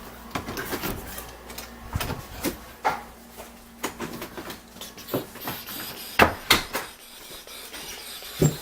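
Footsteps about every half second, mixed with knocks and rubbing from a handheld camera being carried; the loudest pair of thumps comes about six seconds in.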